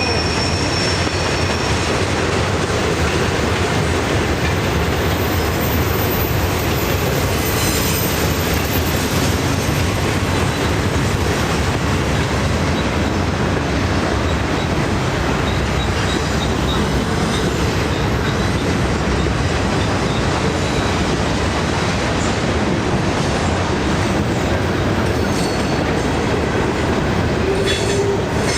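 Norfolk Southern train rolling steadily past, a continuous loud rumble of wheels on rail with faint squeal from the wheels.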